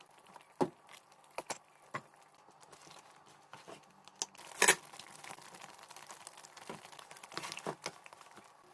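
Scattered sharp clicks and light knocks, about ten spread irregularly, with crinkling; the loudest comes a little before the middle.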